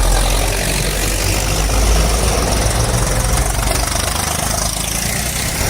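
Tractor engine idling, a steady low rumble.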